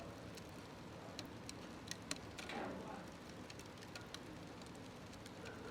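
Wood fire burning in a smokeless stove: scattered sharp crackles and pops over a quiet, steady low background, with a short soft hiss about two and a half seconds in.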